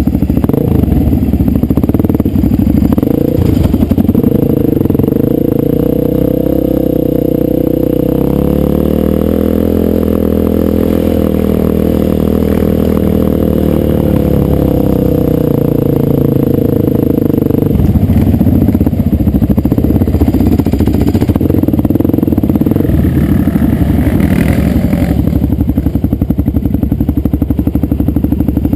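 Dirt bike engine running under changing throttle: a steady drone whose pitch sinks about eight seconds in and climbs back a few seconds later, turning rougher and more uneven for the last ten seconds, with clatter mixed in.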